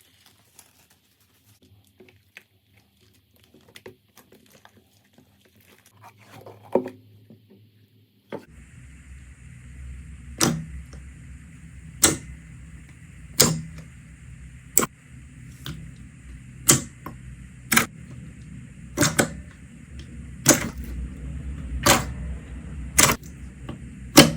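Slime being handled: faint sticky clicks at first, then, from about eight seconds in, a series of sharp pops about every second and a half over a steady background hiss.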